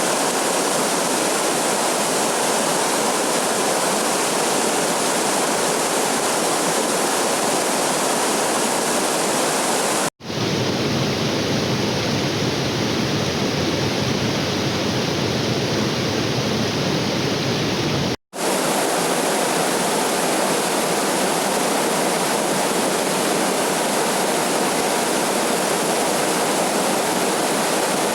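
Steady rush of a waterfall's falling water. The sound cuts out abruptly about 10 seconds in and again about 18 seconds in. Between the two cuts it comes back duller and deeper.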